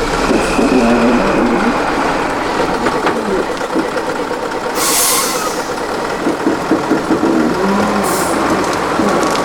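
Heavy off-road trial truck's diesel engine running under varying load. A short hiss of compressed air comes about halfway through, and a briefer one near the end.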